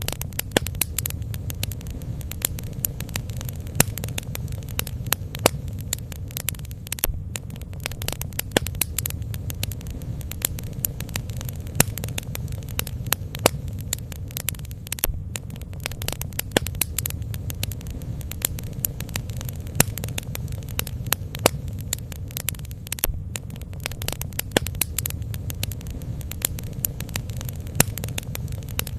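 Bonfire burning: a steady low rumble with frequent sharp crackles and pops.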